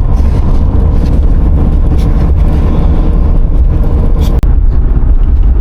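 A car driving along a road, heard from inside the cabin: a loud, steady low rumble of road and engine noise, with a short tick about four seconds in.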